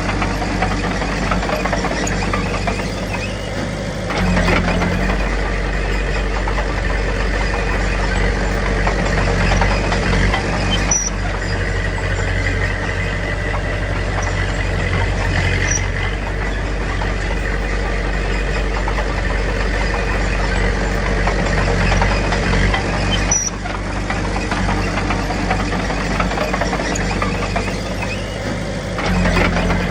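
Diesel engine of a small Komatsu D21P crawler bulldozer running steadily under work. Its note and load shift every several seconds, about 4, 11, 23 and 29 seconds in.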